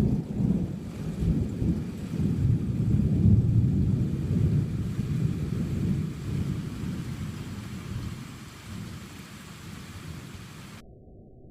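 Thunder rolling in a long, uneven low rumble that swells a few seconds in and then slowly dies away over the last few seconds.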